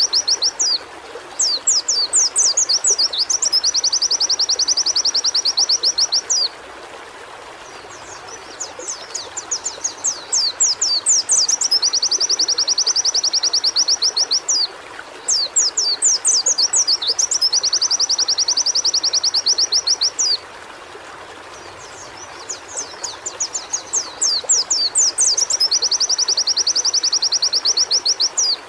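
White-eye (pleci) singing: four phrases, each a run of quick, high downward-sweeping chips that runs into a fast, high rattling trill of two to three seconds, over a steady hiss of running water.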